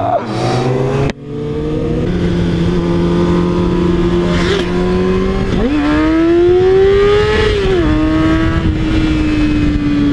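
Sport motorcycle engine heard from the rider's seat over wind rush. It cuts off abruptly about a second in, then runs at steady revs. Past the middle it revs up, climbing, and drops back at a gear change before settling steady again.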